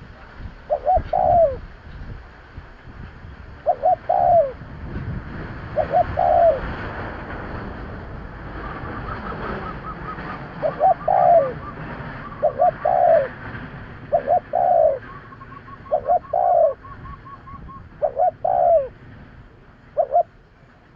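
Spotted dove cooing: short two- and three-note coo phrases, repeated every second or two. Twice in the middle, a faint rapid run of higher notes sounds behind the cooing.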